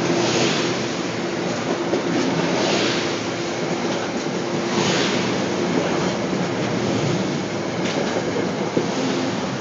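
Metro-North electric commuter train running past close by: steady rumble of steel wheels on rail under a steady hum, swelling about every two seconds.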